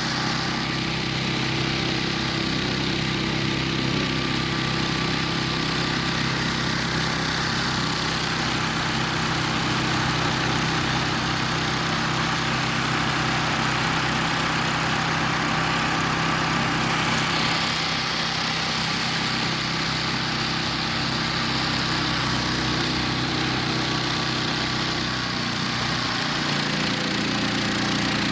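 Homemade karakat's engine running steadily, with a constant low drone that hardly changes.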